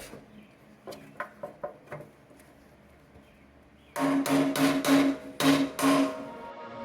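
Light clicks, then a quick run of about six sharp metallic taps, each with the same short ring, as a part is tapped into place during engine reassembly.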